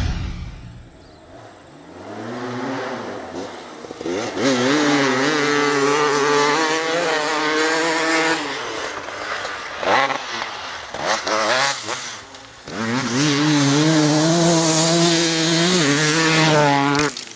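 KTM 300 EXC's single-cylinder two-stroke engine revving up and holding high revs. The revs drop about halfway through, blip a couple of times, then climb and hold high again before falling away near the end.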